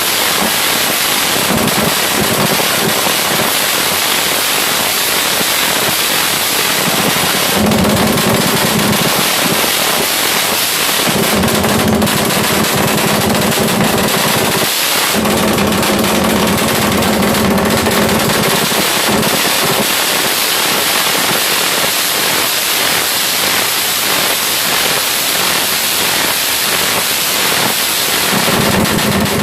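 Suzuki Satria FU single-cylinder four-stroke engine, bored up with an 87 mm piston, running loud with a fast, choppy popping exhaust beat like a helicopter. Several times it is held at higher revs for a few seconds.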